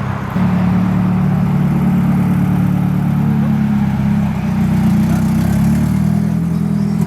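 A car engine running steadily close by, stepping up a little in pitch and loudness about half a second in and then holding at that speed.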